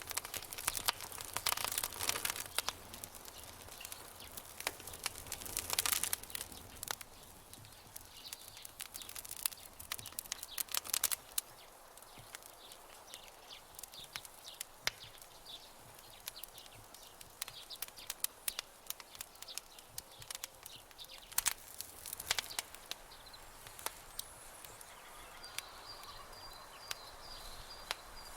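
Campfire crackling: irregular sharp pops and snaps of burning wood, coming in dense bursts a few seconds apart over a soft hiss. Near the end a faint high, broken chirping tone joins in.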